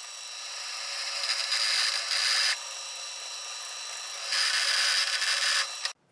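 Electric grinder running with a steady high whine, pressed into steel twice for a second or so each, about a second in and again near the end, then cut off suddenly.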